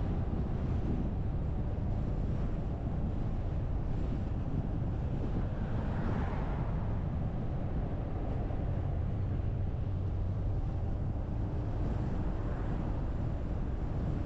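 Steady low rumble of a car driving along a road, engine and tyre noise, with a swell of tyre hiss about six seconds in.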